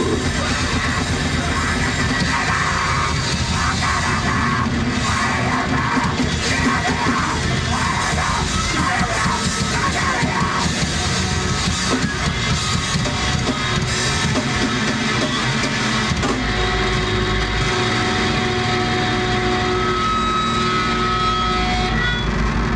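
Live heavy metal band playing loud, with distorted guitars and drum kit. About two-thirds of the way through, the fast playing gives way to held, ringing notes and a low, steady drone as the song winds down.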